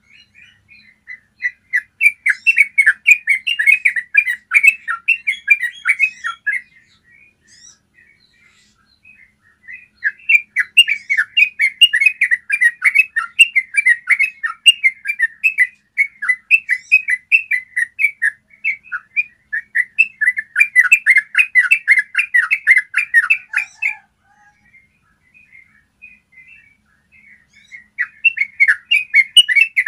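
Yellow-vented bulbul singing long, rapid rolling runs of clear chattering notes. It sings in four bouts of several seconds each, separated by short pauses with a few scattered single chirps.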